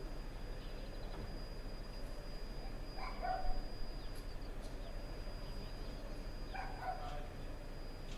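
A dog barks twice, about three and a half seconds apart, over a steady low background hum.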